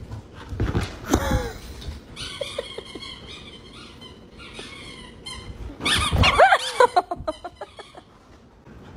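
A dog whining and squealing in high-pitched squeaky cries, with a louder run of whines about six seconds in.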